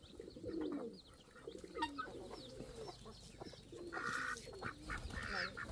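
Pigeons cooing in repeated low, curving calls, with thin high chirps and a few clicks over them.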